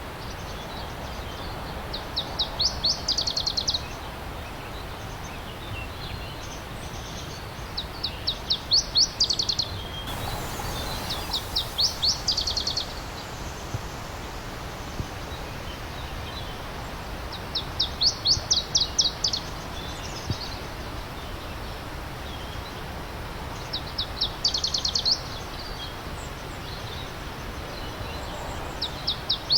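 A songbird repeating a short, fast trilled phrase of rapid downward-slurred high notes about six times, every four to seven seconds, over the steady rushing of a stream.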